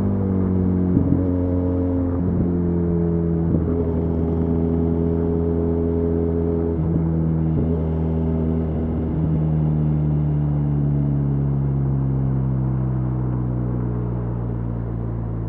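Benelli Leoncino 500's parallel-twin engine running under way at steady revs, its pitch slowly falling through the stretch and the sound easing off near the end, over a low steady road and wind rumble.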